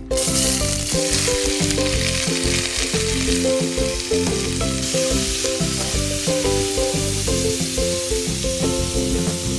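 Food sizzling in hot oil in a pan, starting suddenly as it goes into the oil, over light background music.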